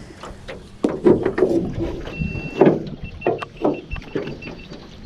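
Anchor being hauled up by its rope into a jon boat: irregular knocks and scraping against the boat, with a few brief high squeaks.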